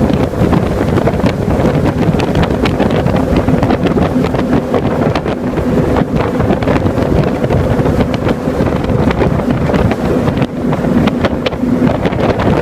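Jet boat running at speed: its engine a steady drone under heavy wind buffeting on the microphone.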